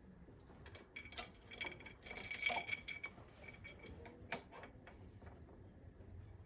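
Scattered light metallic clicks and clinks, a few with a short ring, between about one and four and a half seconds in: small metal engine parts or tools being handled during timing chain work.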